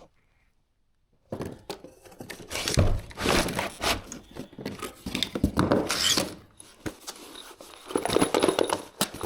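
Packaging being handled and pulled open: crinkling and tearing with sharp clicks and knocks, starting about a second in and going on in irregular bursts.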